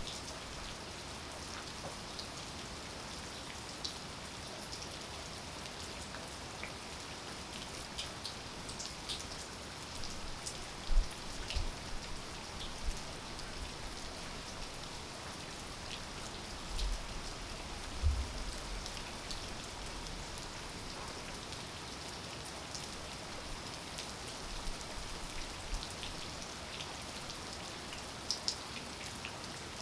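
Steady rain falling, an even hiss with scattered ticks of individual drops. A few low thuds about eleven seconds in and again around seventeen to eighteen seconds are the loudest moments.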